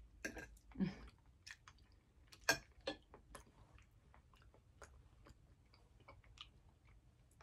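Quiet close-up chewing of food, with many small wet mouth clicks and smacks and one sharper click about two and a half seconds in.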